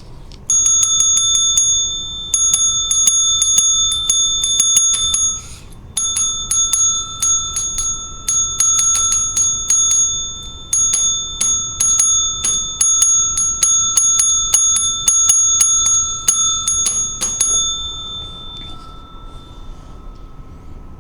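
A small metal bell struck rapidly and over and over, its ringing tone held by the quick hits, with short breaks about 2 and 5.5 seconds in, then dying away near the end.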